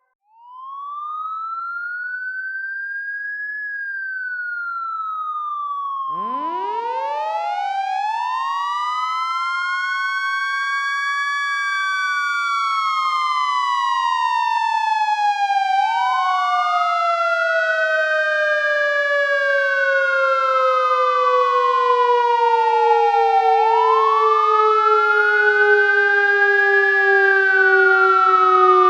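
Fire truck sirens: a wail rises and falls in long, slow sweeps, about every seven or eight seconds. About six seconds in, a second, deeper and rougher siren winds up from a low growl to a high wail, then slowly winds down while the first keeps cycling.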